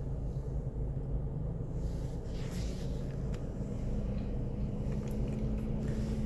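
Mercedes car's engine running steadily, a low rumble with a steady hum, and a slightly higher hum joining about four seconds in.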